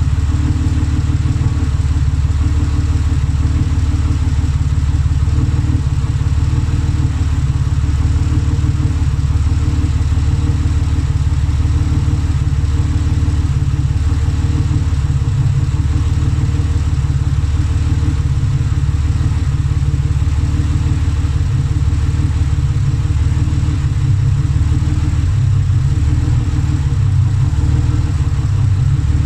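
Turbocharged Mercedes M104 inline-six idling steadily on its first run after a new engine was fitted.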